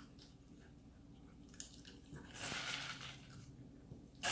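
A dog eating hand-fed kibble: soft chewing and mouth sounds, with a louder rush of noise about two seconds in and another short one at the end.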